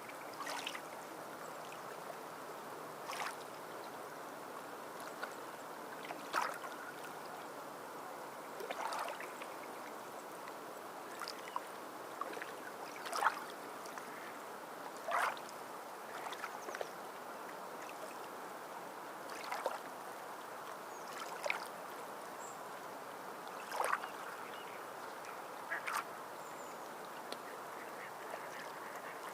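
Short, sharp bird calls, one every two to three seconds, over a steady wash of water.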